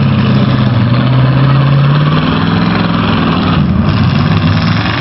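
Demolition derby cars' engines running loudly together, the engine note shifting in pitch about two seconds in as the drivers rev and back off.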